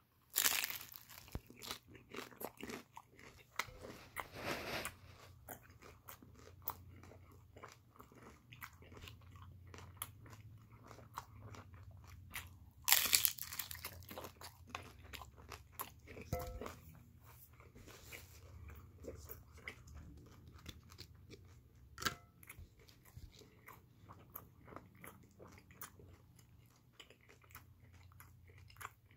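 Close-up biting and crunchy chewing of a crisp golden pastry shell, with a loud first bite about half a second in and another loud crunch around 13 seconds, then irregular crunching chews.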